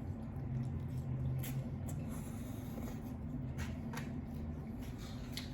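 Chewing a mouthful of lo mein noodles: soft wet mouth sounds with a few scattered small clicks, over a low steady hum.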